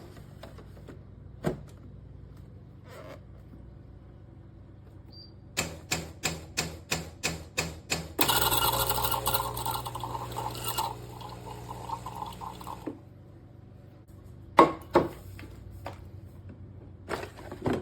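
Philips fully automatic espresso machine working: a quick run of rhythmic clicks, then a loud hissing run with a hum as liquid pours out, fading over a few seconds. A few sharp knocks follow near the end.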